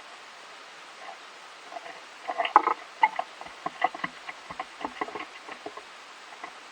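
A squirrel eating, a quick irregular run of small crisp cracks and clicks from about two seconds in until near the end, over a steady hiss.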